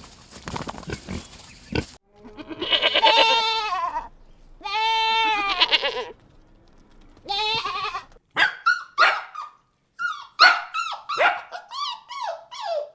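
A run of animal calls: rough, noisy animal sounds, then three long quavering bleats, then about eight seconds in a rapid series of short, sharp barks, each falling in pitch like a small dog yapping.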